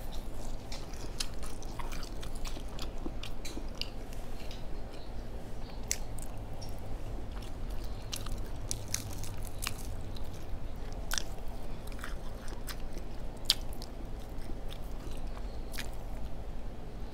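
A person chewing and biting pieces of fried flounder, with many short, irregular clicks and crunches over a steady low hum.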